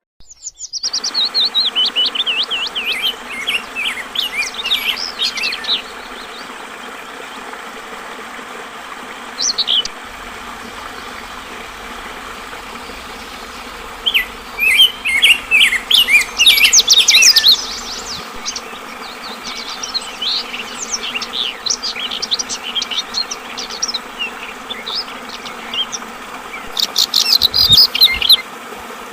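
Yellow-vented bulbul (trucukan) singing in repeated bursts of quick, chattering phrases, with gaps of several seconds between the bursts. Under the song, flowing water trickles steadily.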